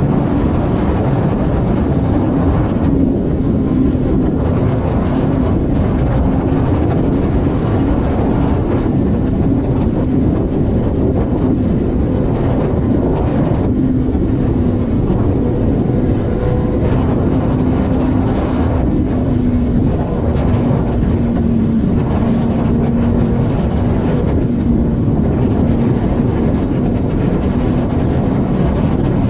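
A vehicle cruising at a steady highway speed: a steady engine drone whose pitch drifts slightly, over loud road and wind rumble.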